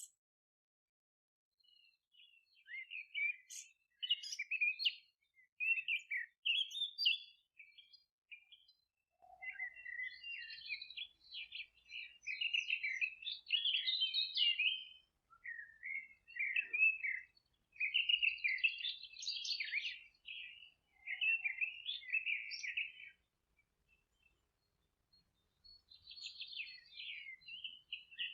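Songbirds chirping and singing in quick, busy phrases, in bouts with short pauses between them. No one call stands out as a single species.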